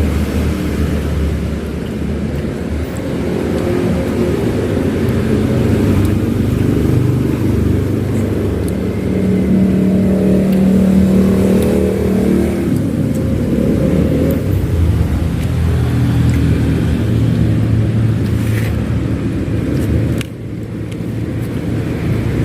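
Road traffic running past close by: steady engine noise from passing motor vehicles, with one engine louder and holding a steady note for a few seconds about ten seconds in.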